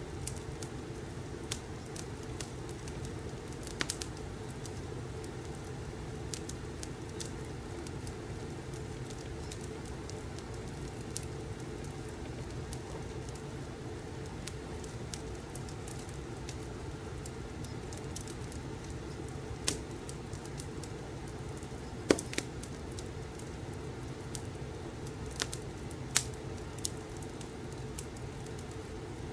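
Fireplace crackling: a steady low rushing with scattered sharp pops and snaps, the loudest pop about two-thirds of the way through.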